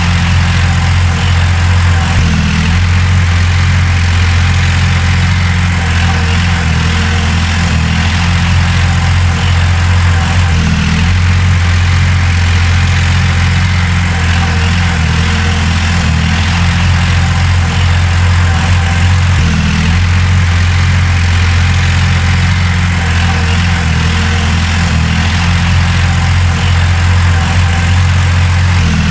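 Diesel engine of heavy earthmoving machinery running steadily, a deep continuous drone with little change.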